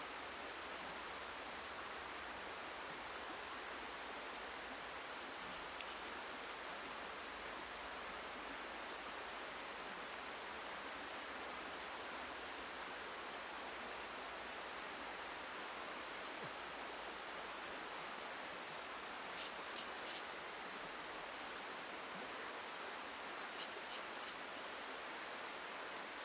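Steady, even rush of flowing river water, with a few faint short clicks about a quarter of the way in and twice near the end.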